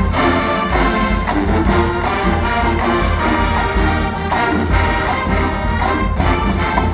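A college marching band playing full ensemble, with trombones and trumpets carrying sustained chords over a heavy, steady low end.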